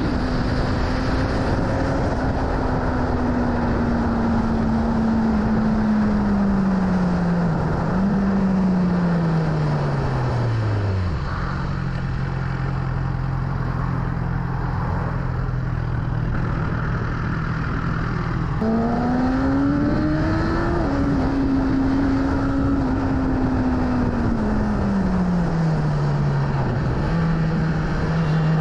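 BMW S1000RR inline-four motorcycle engine heard from the rider's position over a steady rush of noise. Its note holds, then falls steadily as the bike slows and settles low for several seconds. About two-thirds of the way in it climbs sharply with a brief break as it is shifted, holds high, then falls again near the end.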